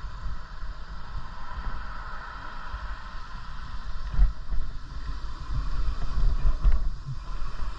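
Wind rumbling on the microphone of a moving bicycle, over a steady hiss of riding noise, with a couple of short jolts about four and seven seconds in.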